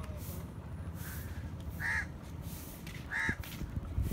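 Two short bird calls about a second and a half apart, over a steady low rumble.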